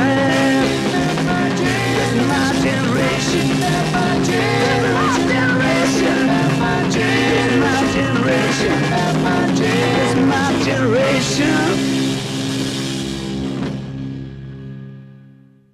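Loud rock music, an instrumental passage of guitars and drums over a held low note, fading out to silence in the last few seconds.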